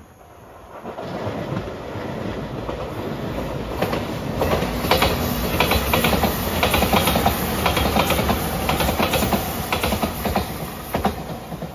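Shiokaze limited express electric train passing close by at speed. Its wheels clack rapidly over the rail joints as the noise builds to a peak, then eases off near the end as the train draws away.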